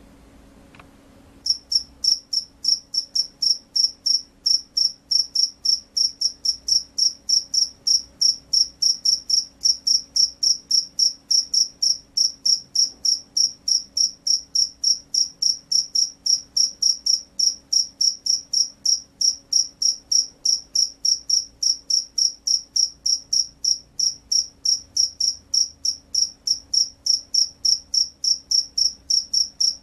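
Field cricket (jangkrik sawah) singing: a steady, even series of high-pitched chirps, about three a second, starting abruptly about a second and a half in.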